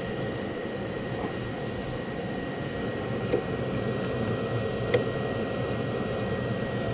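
Gas furnace running in first-stage heat: a steady rush of moving air and motor noise with a thin, steady high whine. Two light clicks about three and five seconds in.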